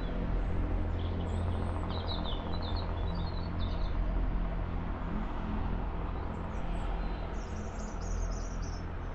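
Small birds chirping in two spells, about a second in and again near the end, over the steady low drone of a diesel passenger train's engine as it pulls away into the distance.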